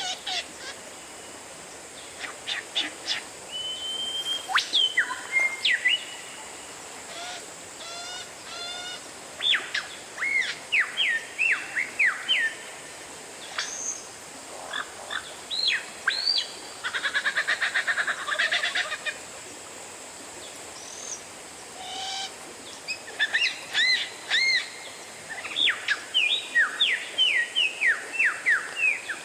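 Oriental magpie-robin (kacer) singing a varied run of loud whistled notes and sweeping phrases, with a buzzy chattering stretch about two-thirds of the way through, over a steady background hiss.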